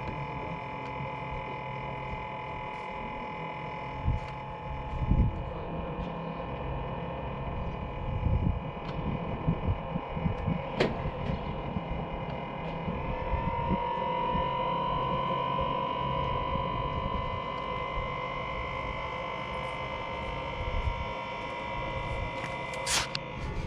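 Diesel heater running with a steady hum and whine from its fan motor. About halfway through, the whine rises slightly in pitch and gets louder. The owner takes the noise for a worn bearing on the motor. Scattered low thumps, and two sharp clicks near the end.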